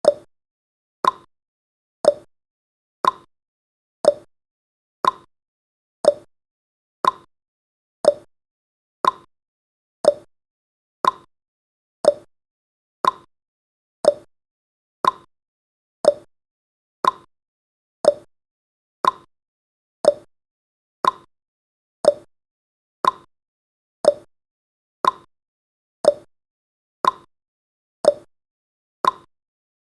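Countdown timer's clock-tick sound effect: one short, sharp tick every second, each with a brief ringing tail.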